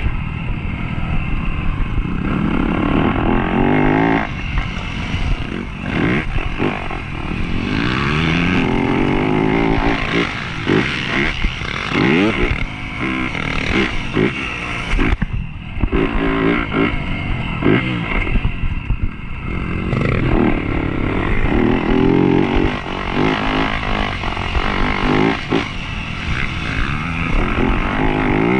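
Dirt bike engine revving hard on a motocross track. Its pitch climbs and drops again and again as the throttle is opened and shut.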